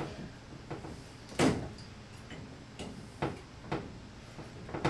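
Several separate knocks and clunks, the loudest about one and a half seconds in, as the Moen cartridge puller tool is handled on the tub and shower valve cartridge.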